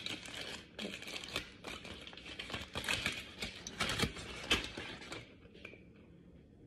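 Takeout garlic naan and its packaging being handled close to the microphone: a quick run of crinkling, rustling and small clicks that dies down about five seconds in.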